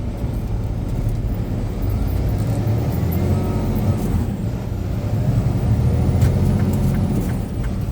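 Semi truck's diesel engine and road noise heard from inside the cab while driving, a steady low drone with a faint rise in pitch partway through.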